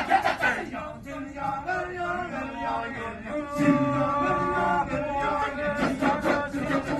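Chanted or sung music by male voices, holding long notes in a slow, stepping melody after a rapid rhythmic pulse stops about a second in.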